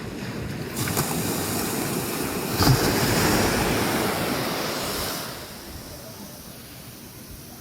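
Ocean surf: a wave breaking and rushing up the beach, swelling about a second in, loudest around three seconds, then washing back and fading.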